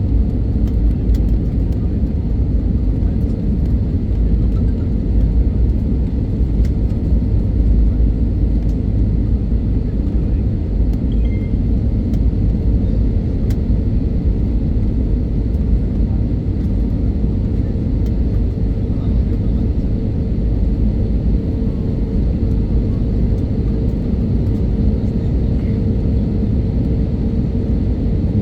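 Steady cabin noise of an Airbus A320-family jet airliner during takeoff and climb: a loud, even rumble of engines and airflow with a steady hum on top, unchanging throughout.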